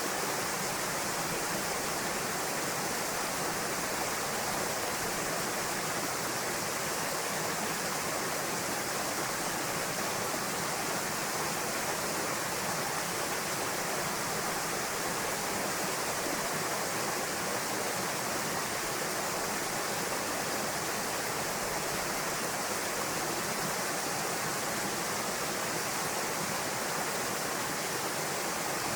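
Small waterfall pouring steadily into a pool, a constant even rush of falling water.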